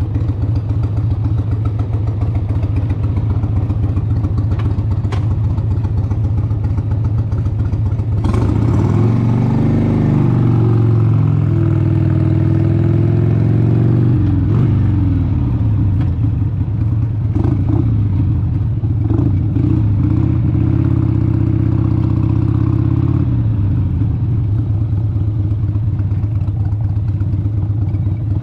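1996 Harley-Davidson Sportster XLH883's air-cooled V-twin engine running while riding. It holds a steady note for about eight seconds, then its pitch swings down and up several times as the bike slows, shifts and pulls away again.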